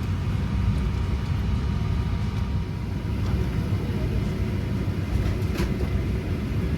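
Airliner cabin noise: a steady low rumble from the engines and cabin air, with a faint steady whine and a couple of faint clicks.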